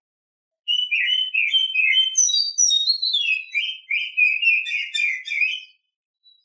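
Female oriental magpie-robin (kacer) singing one unbroken phrase of quick, varied whistled notes for about five seconds, starting just under a second in and stopping shortly before the end.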